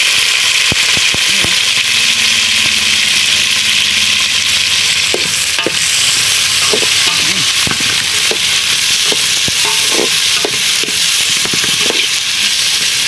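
Chopped tomatoes, onion and chillies frying in oil in an aluminium pot with a steady sizzle. From about five seconds in, a metal spatula scrapes and clinks against the pot as the vegetables are stirred.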